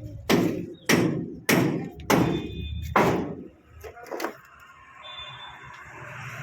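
A run of five loud thuds about half a second apart, then two softer knocks, followed by a steady low noise.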